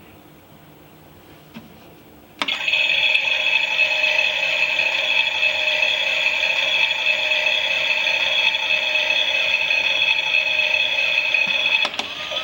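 Klein toy Miele washing machine switching on with a click about two seconds in, then running with a steady mechanical rattle. Another click near the end is followed by a slightly quieter sound.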